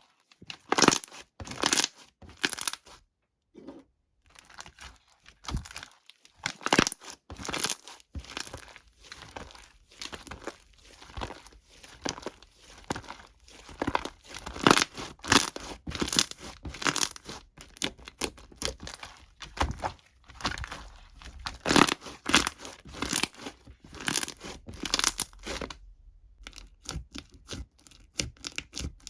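Irregular crinkling and tearing of some thin material being handled, in quick bursts, with short pauses about three seconds in and near the end.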